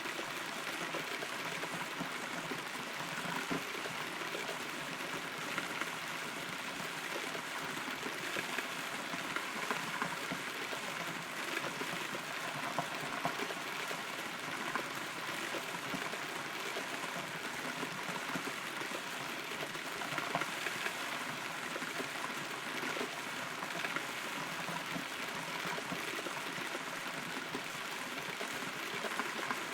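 Steady rain heard from inside a hollow rotten tree: an even hiss with many small, irregular drop hits.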